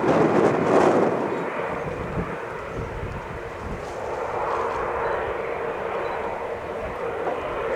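Jet aircraft engines running with a steady rushing noise and a faint steady hum, loudest in the first second or so.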